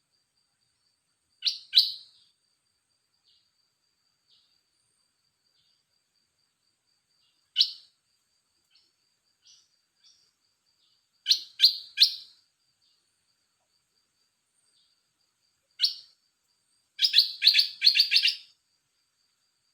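Caged red-whiskered bulbul singing short, clear phrases of one to five quick notes, separated by pauses of a few seconds, ending in a quicker run of notes.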